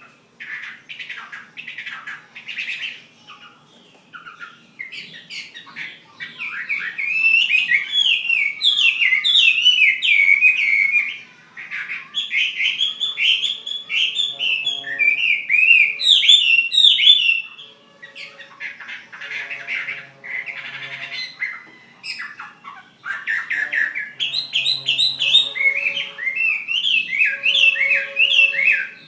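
A Chinese hwamei, kept as a fighting bird, singing loud, fast runs of varied, sliding whistled notes. The song comes in long bursts, with brief pauses about four seconds in, near twelve, eighteen and twenty-two seconds.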